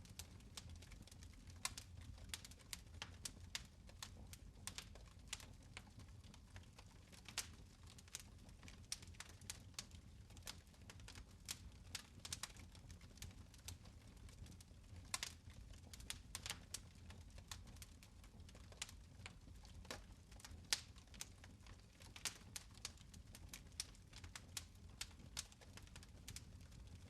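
Fire in a fireplace crackling, with irregular sharp pops and snaps over a faint low rumble.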